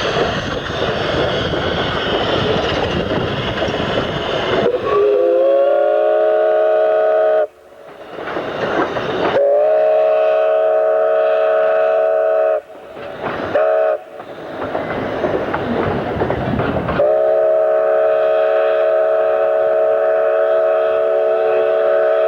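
Steam locomotive running, then its multi-note chime whistle blowing long, long, short, long: the grade-crossing signal. The whistle comes in about five seconds in, and the train's running noise fills the gaps between blasts.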